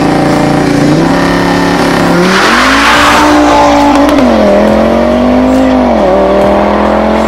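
Audi RS3's five-cylinder engine through a Milltek exhaust, revving: the pitch climbs about two seconds in, falls back about four seconds in, and rises and dips once more near six seconds, with a rushing noise over the first climb.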